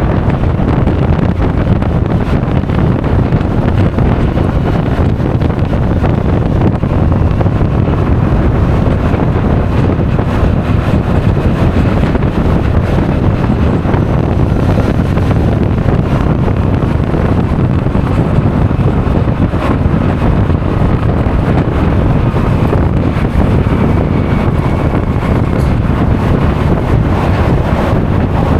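Steady wind rushing over the action camera's microphone while a Honda Forza 350 scooter is ridden at speed, with the vehicle's running noise beneath.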